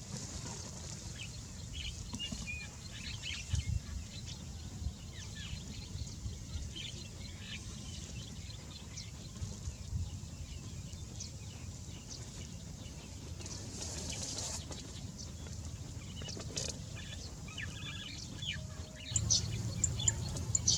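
Birds chirping in short scattered calls over a steady low background rumble, with a quicker, louder run of chirps near the end.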